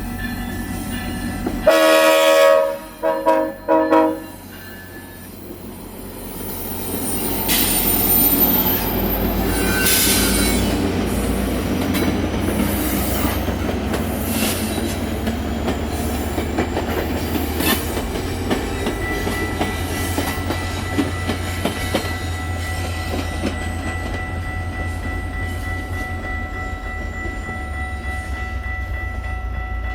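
Diesel locomotive horn sounds one longer blast and two short ones, then a train rolls past with a steady rumble and the clatter of wheels over the rails. A thin steady tone joins the noise about two-thirds of the way through.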